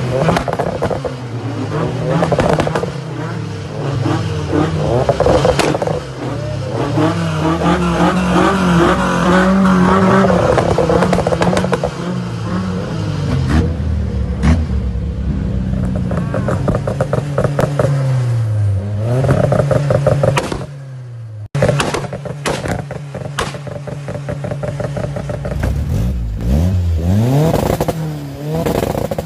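Turbocharged KA24DET 2.4-litre four-cylinder in a Nissan S14 revved over and over against a two-step launch limiter. The revs climb, hang at the limiter and drop back, while the exhaust crackles and pops with backfires.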